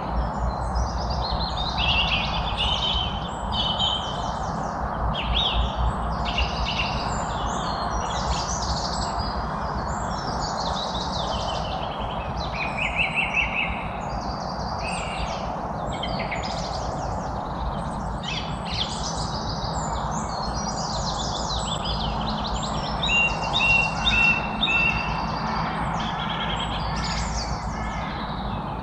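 Many small birds chirping and trilling at once, a dense overlapping chorus of rapid high calls over a steady background hiss.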